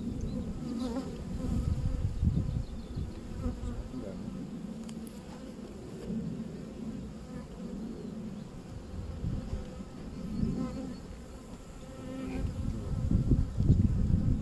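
Honeybees buzzing in a steady drone around an opened hive during an inspection, with a louder low rumble near the end.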